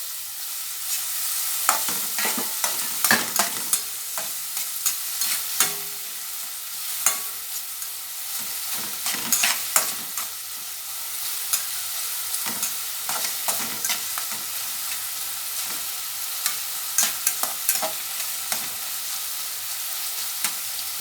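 Chopped onion and garlic sizzling in hot oil in a pot while being stirred, the utensil clicking and scraping against the pot at irregular intervals over a steady hiss.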